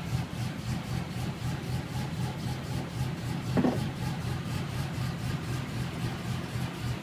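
Nissan Skyline GT-R's S20 2.0-litre twin-cam straight-six idling steadily, with one brief sharper sound about three and a half seconds in.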